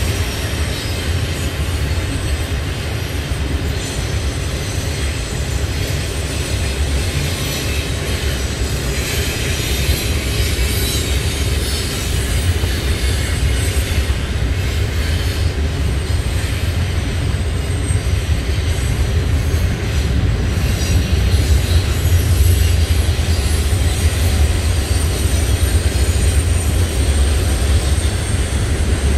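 Double-stacked intermodal freight cars of a CSX train rolling steadily past on the rails: a continuous low rumble of wheels and cars, with a thin, high wheel squeal over it.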